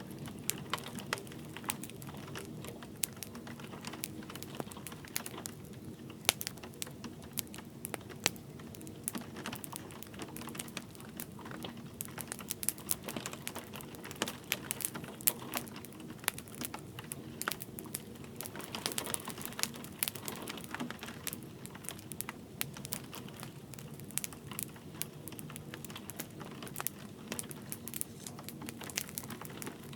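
Wood fire crackling with many irregular sharp pops and snaps, over a steady hiss of light rain.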